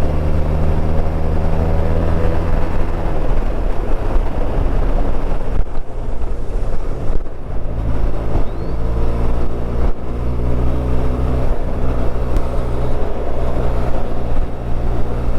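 Benelli TRK 502's parallel-twin engine running while the motorcycle is ridden, over wind and road noise. The engine note drops away about six seconds in and picks up again about two seconds later.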